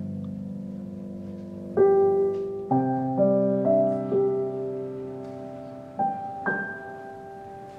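Slow, soft background piano music: a held chord, then a gentle run of single notes and chords struck a little under a second apart, each left to fade away.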